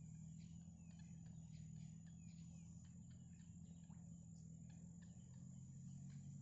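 Faint, rapid, high-pitched chirps and ticks of green heron nestlings calling, irregular and closely spaced, over a steady low hum.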